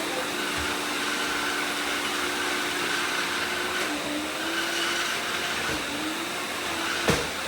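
Several robot vacuums running at once: a steady whirring motor noise with slowly wavering hums, and a single sharp knock about seven seconds in.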